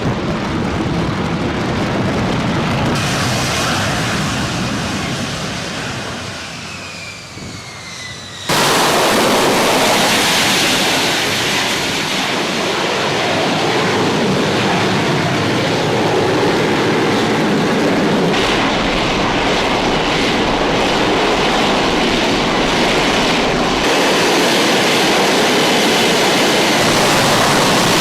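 Jet noise from an F-35A Lightning II's F135 afterburning turbofan in a flying display: a high whine falls in pitch as the jet passes and fades. About eight seconds in it cuts suddenly to a loud, steady jet roar.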